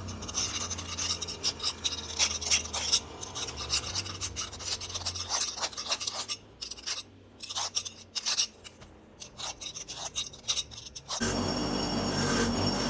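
Irregular hand strokes of a file rasping over a freshly milled part, likely deburring it. About eleven seconds in, the strokes stop and a steady machine noise starts suddenly.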